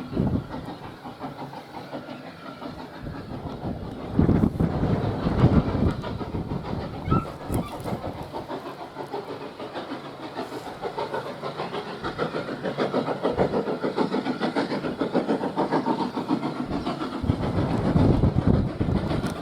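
Steam-hauled train running by, with a steady rapid clatter of wheels on the rails. It grows louder for a couple of seconds about four seconds in, and again near the end.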